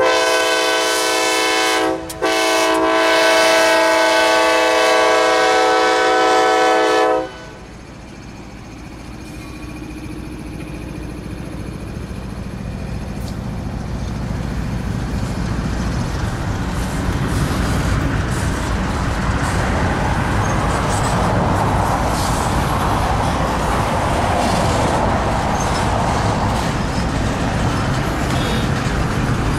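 Diesel freight locomotive's air horn sounding a chord: a blast of about two seconds, a brief break, then a long blast that cuts off about seven seconds in. After that come the rolling rumble and wheel noise of double-stack intermodal container cars passing close by, slowly growing louder.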